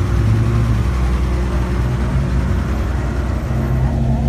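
Car engine running steadily at low speed, a low even hum whose pitch shifts slightly a little before the end.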